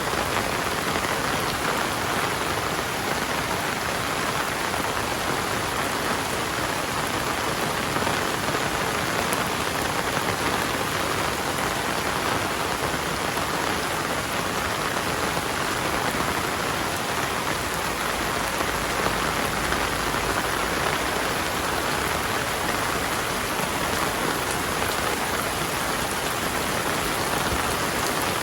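Heavy rain falling steadily, a dense, even hiss with no thunder or other events.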